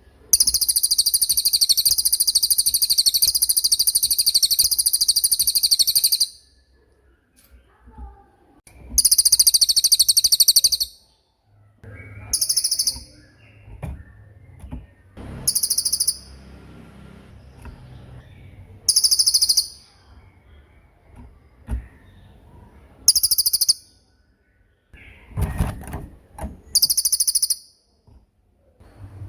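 A small songbird giving very high, rapid rolling trills. A long trill of about six seconds opens, then a shorter one, then brief bursts every few seconds.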